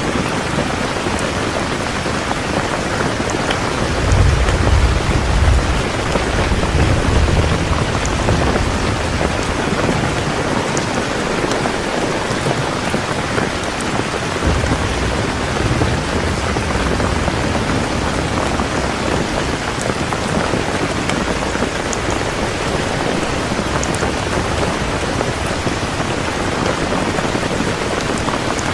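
Heavy steady rain with rolling thunder: a long deep rumble swells about four seconds in and fades over several seconds, and a weaker rumble follows around halfway through.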